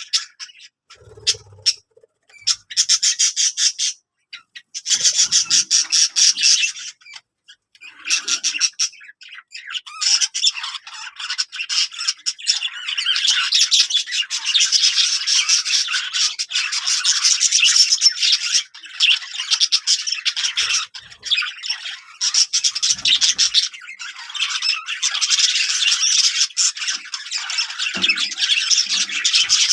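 Birds squawking and chattering in rapid, harsh calls. The calls come in short bouts at first, then run almost without a break from about ten seconds in.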